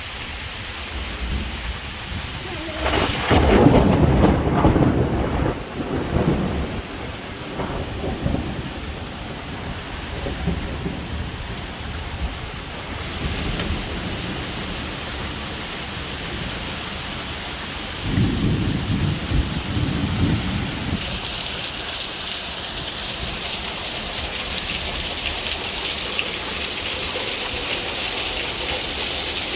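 Thunderstorm: heavy rain falling with a steady hiss, and thunder rumbling twice, a long loud roll a few seconds in and a shorter one past the middle. In the last third the rain grows heavier and its hiss louder.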